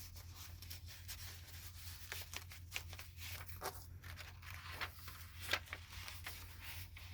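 Paper rustling and light crinkling as pages and loose papers of a handmade junk journal are handled and turned, faint and irregular, over a steady low hum.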